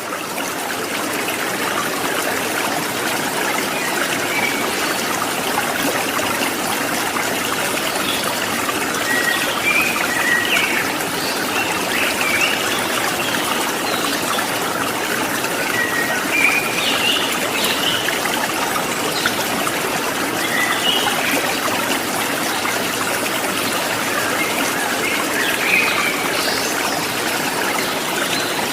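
Water trickling and babbling steadily like a small stream, with short bird chirps scattered through it every few seconds.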